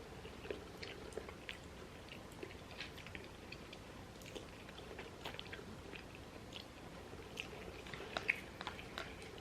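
Close-miked chewing: soft, irregular wet mouth clicks and smacks of people eating.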